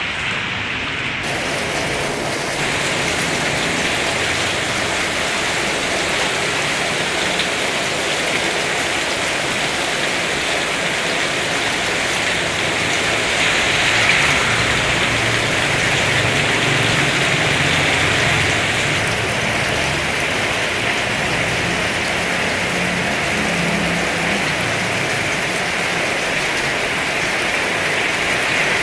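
Heavy rain pouring steadily, a dense even hiss that swells a little about halfway through.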